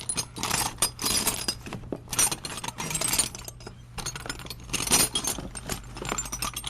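Metal sockets and tools clinking and rattling in irregular bursts as a hand rummages through a tool bag.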